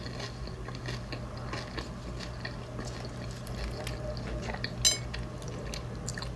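Eating sounds: light clicks and taps of utensils on a takeout container with soft wet mouth sounds, over a low steady hum. One sharper click comes about five seconds in.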